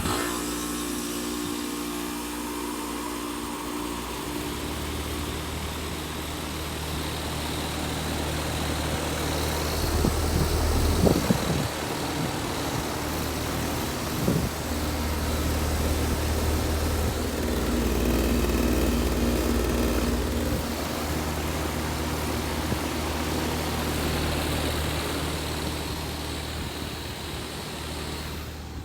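Carrier Comfort 3.5-ton central air conditioner starting up and running: a steady rush of fan airflow, joined about four seconds in by a low, even hum from the unit. A few brief knocks come around ten and fourteen seconds in.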